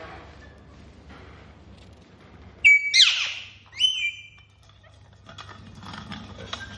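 Pet parrot giving two loud calls about three seconds in: a harsh screech, then a shorter whistle that holds one pitch and drops away. Softer scratching and crackling come before and after, from the parrot handling a bottle.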